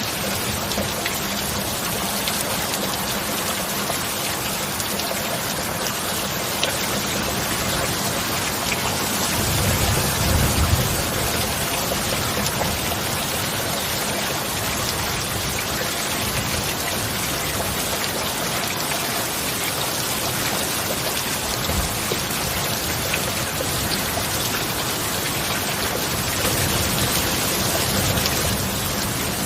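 Steady rain falling, an even hiss of drops on a surface, with a brief low rumble swelling about ten seconds in.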